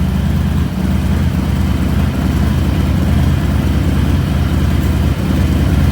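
Harley-Davidson Fat Boy's Milwaukee-Eight V-twin idling steadily through Cobra 3-inch RPT slip-on mufflers, a deep, loping exhaust pulse.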